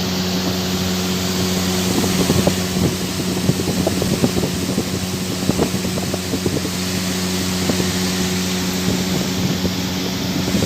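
Evaporative cooler running: a steady motor hum under a broad rush of moving air, with irregular low crackling buffets, likely air blowing against the microphone.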